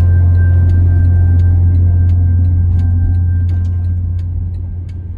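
Steady low road-and-engine rumble inside a moving car's cabin, with the end of a song still playing on the car stereo. Both fade out near the end.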